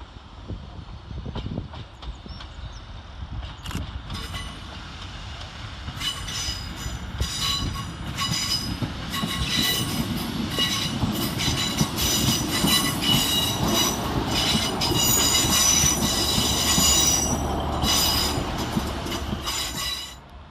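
Class 150 diesel multiple unit pulling into the platform. A low rumble runs under high-pitched, stop-start squealing from its wheels and brakes, and the squeal grows louder before dropping away sharply near the end.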